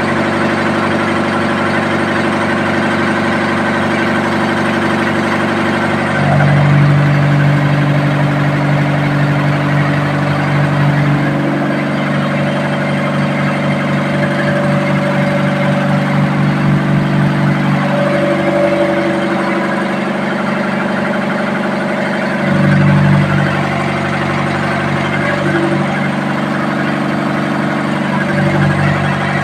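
A ship's engine running steadily with a deep, even drone. Its note shifts in pitch and loudness several times, stepping up about six seconds in and again later.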